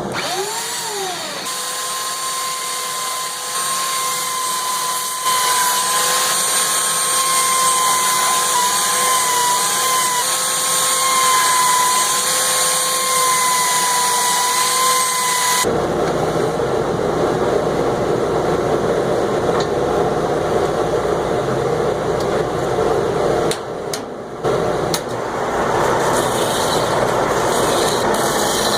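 Woodworking power tools running. A steady whine after a quick spin-up runs for about 16 seconds, then cuts abruptly to a rougher, noisier machine sound, briefly interrupted twice near the end.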